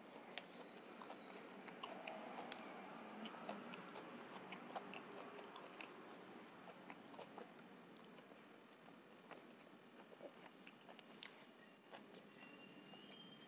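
Faint, close-miked chewing of homemade vegetable pizza: soft mouth sounds with irregular small crunchy clicks, busier in the first half.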